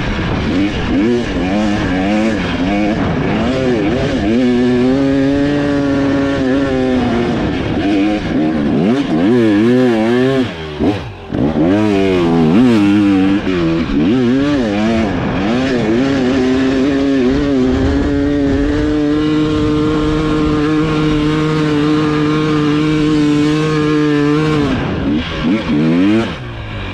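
2024 KTM 300XC's single-cylinder two-stroke engine revving hard, its pitch rising and falling with the throttle. It drops off briefly about ten seconds in, holds steady at high revs for several seconds later on, then backs off near the end.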